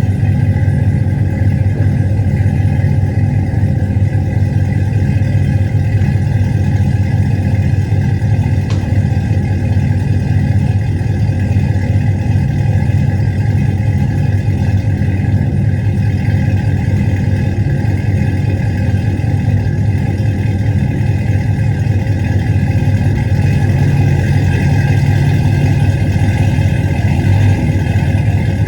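2011 Cadillac CTS-V's supercharged 6.2-litre V8 idling steadily through a new 3-inch exhaust with a Flowmaster muffler, a deep, even rumble.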